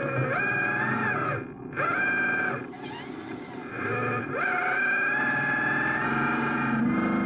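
Electric motor whine of RC construction machines, rising in pitch, holding and falling away again in several spells.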